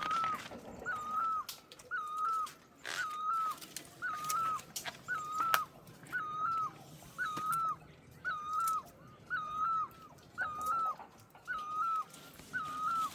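An animal's short, high whining call, repeated over and over at an even pace of almost two a second, with scattered sharp clicks in between.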